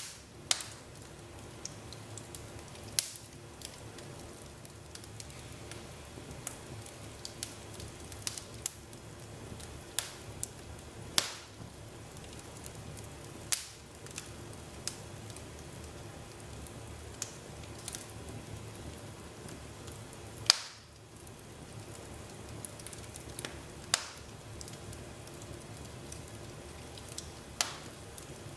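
Fire in a fireplace crackling: a steady low hiss with sharp pops every few seconds, the loudest about two-thirds of the way through.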